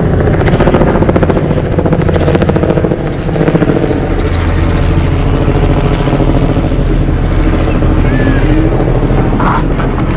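Helicopter flying nearby, its rotor beating in a fast, steady pulse over a continuous engine drone.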